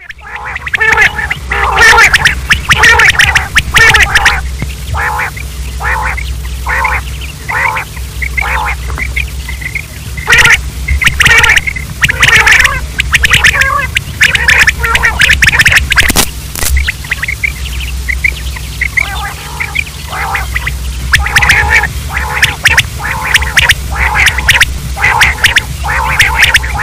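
Quail calling, short harsh notes repeated in quick series with brief pauses between bouts, over a steady low hum.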